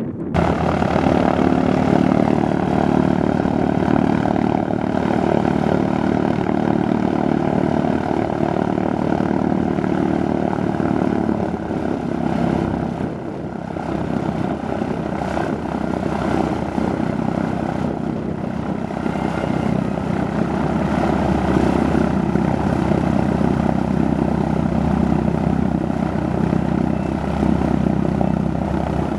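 Propeller aircraft engines running loudly with a steady, many-toned drone. The sound eases briefly about twelve seconds in, then builds again.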